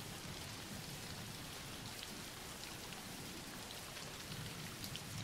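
Steady soft rain falling, an even patter of drops with a few sharper drips standing out in the second half.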